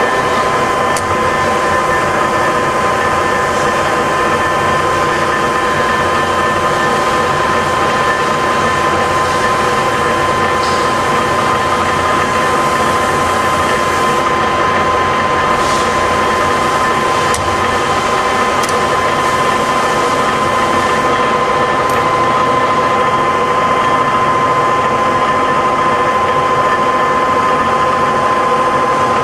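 Cincinnati No. 12 rise-and-fall milling machine running in its automatic cycle, a steady whine of several held tones over a mechanical hum, with a few light clicks partway through.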